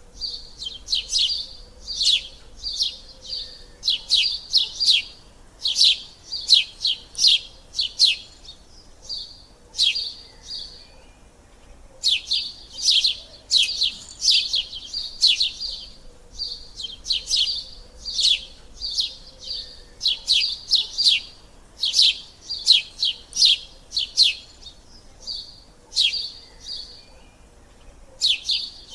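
Sparrows chirping: short, high chirps in quick runs, broken by brief pauses every few seconds.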